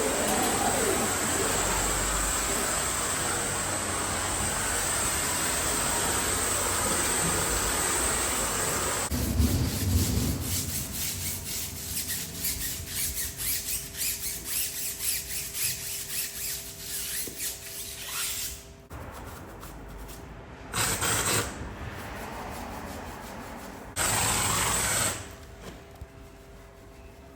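Car-cleaning work: a steady hiss for about nine seconds, then quick, repeated rubbing strokes on the car, then two short bursts of hiss near the end.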